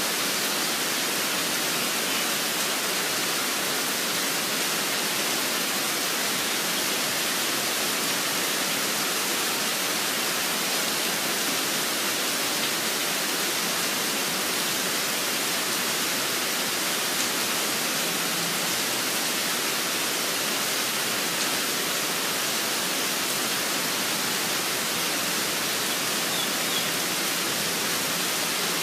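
Steady rainfall, an even hiss with no change in level.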